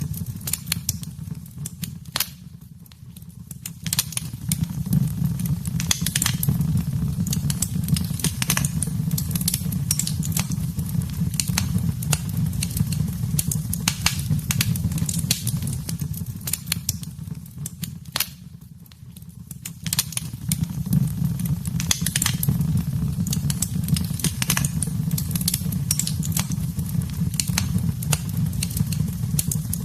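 Wood fire in a fireplace crackling, with dense sharp pops over a low steady rumble of the flames. The crackling and rumble die down briefly twice, about 3 seconds in and again around 19 seconds in.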